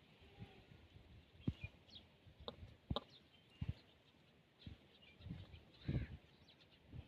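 Peafowl pecking at food: a string of sharp, irregular taps and knocks, with low thuds later on and faint high bird chirps in between.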